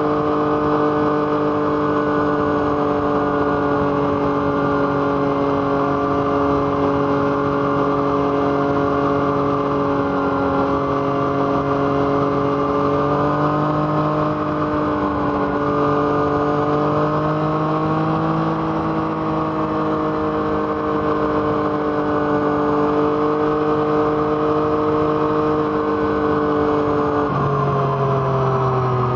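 Yamaha MT-09's 847 cc inline three-cylinder engine through an Arrow Thunder exhaust, running at steady revs while riding, its pitch rising and easing slightly a few times. Shortly before the end the engine note drops sharply in pitch.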